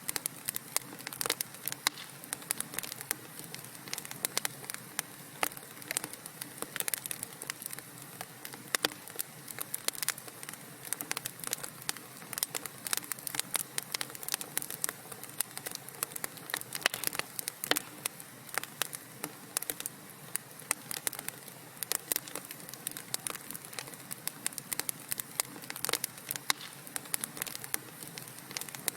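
Burning wood in a fireplace, crackling with many irregular sharp pops and snaps, several a second, over a soft steady hiss.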